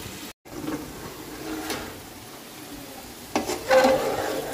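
Okra and chicken masala sizzling in a metal pot while a metal spatula stirs and scrapes against the pot. The scraping gets louder about three and a half seconds in.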